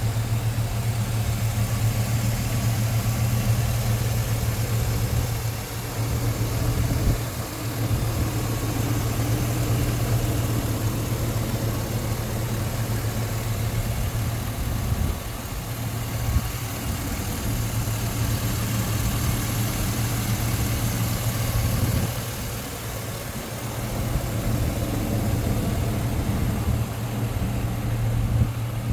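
1999 Chevrolet Silverado Z71 pickup's engine idling steadily with the hood open, a constant low hum that eases off briefly a few times.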